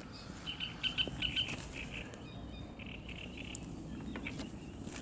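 Small birds chirping: a quick run of short repeated chirps in the first two seconds, then fainter calls. A few light clicks and knocks come near the end.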